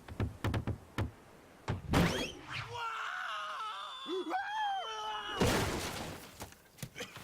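Cartoon sound effects: a run of short dull knocks, a heavier hit about two seconds in, pitched voice-like sounds, then a loud crash about five and a half seconds in.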